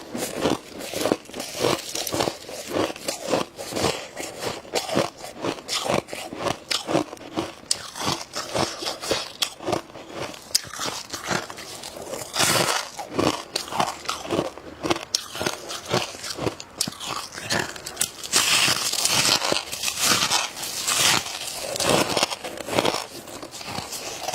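Dry, squeaky freezer frost being bitten and chewed close to the microphone: dense, rapid crunching made of many small cracks. The crunches come louder and brighter about halfway through and again in the last third.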